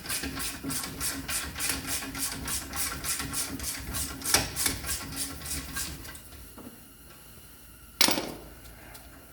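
Hand ratchet clicking rapidly and evenly, about six clicks a second, as a loosened 21 mm caliper bracket bolt is backed out; the clicking stops about six seconds in, and a single loud metallic clank follows near the end.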